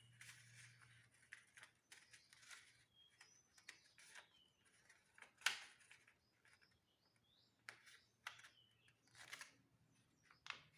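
Sheet of paper being handled and folded by hand: soft rustles and crinkles with short creasing scrapes, the sharpest crackle about halfway through.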